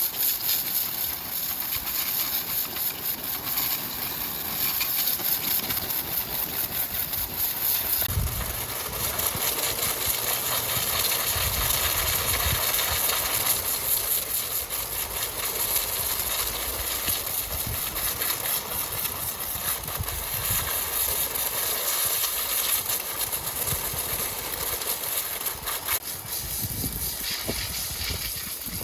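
Sawmill machinery running steadily with a high hiss, and low thuds now and then from about eight seconds in.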